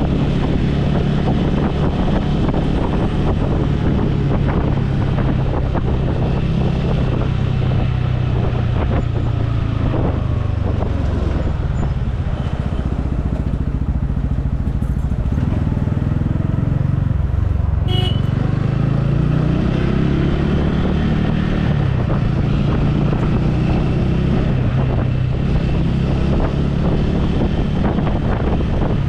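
Motorcycle engine running on the road, with wind noise on the microphone. The engine note dips and then climbs again about two-thirds of the way through.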